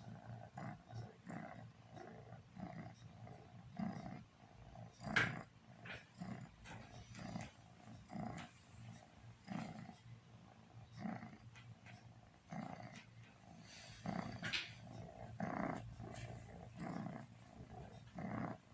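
A pet cat snoring in deep sleep: rough, growl-like snores about twice a second, a few of them louder, over a steady hum.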